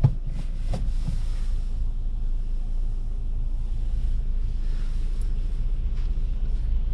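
Car cabin noise while driving: a steady low rumble from the engine and tyres, with a few faint clicks in the first second.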